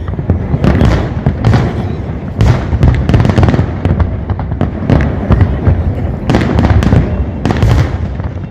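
Fireworks display: many shells bursting in quick, overlapping succession, several a second, over a continuous low rumble.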